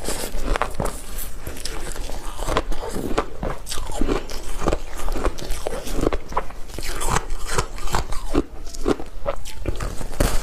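Close-up crunching of frozen ice coated in matcha powder, bitten off and chewed in big bites: a dense, irregular run of sharp cracks and crackles.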